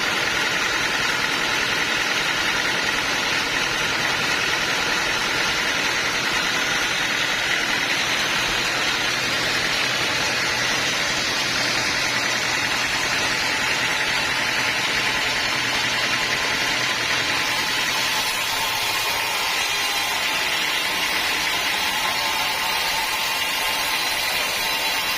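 Sawmill saw machinery running steadily, a continuous mechanical noise with a steady high whine; the low hum under it drops away about three quarters of the way through.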